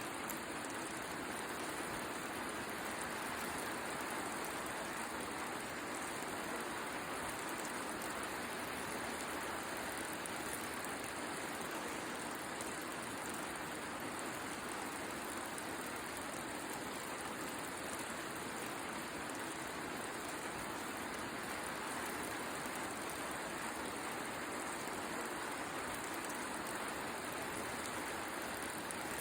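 Steady rain falling, mixed with the crackle of a wood fire.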